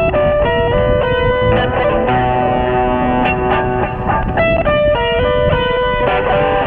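Guitar music: an electric guitar through effects plays a quick melody of single notes, several a second, over held lower notes.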